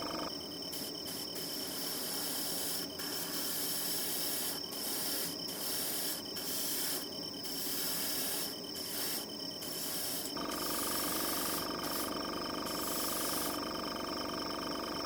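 Outdoor nature ambience: a steady high, pulsing trill over an even hiss, with an abrupt change in the background about ten seconds in.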